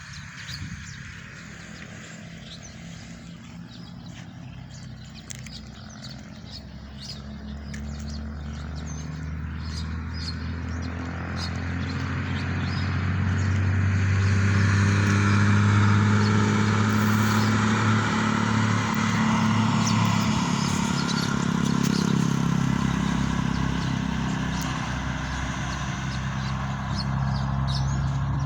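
A motor engine's steady low hum grows louder over about fifteen seconds as it draws near, stays close for several seconds, then eases slightly, with birds chirping.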